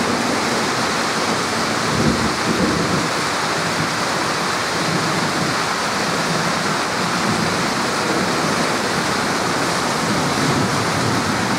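Torrential rain pouring down in a steady, even hiss. A low rumble swells briefly about two seconds in, with fainter ones later.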